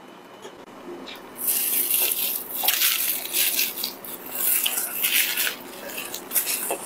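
Biting and chewing fried chicken: irregular bursts of crackly, smacking mouth noise beginning about a second and a half in.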